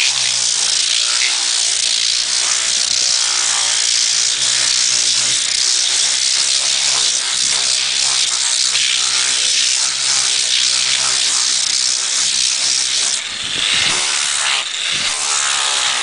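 Power grinder sanding down the bumps on sprayed polyurethane foam roofing: a steady motor hum under a loud hissing grind, easing off briefly twice near the end.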